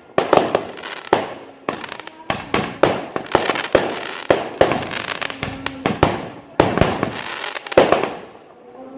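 Fireworks and firecrackers going off in quick succession: an irregular string of sharp bangs and cracks, a dozen or more, each fading quickly.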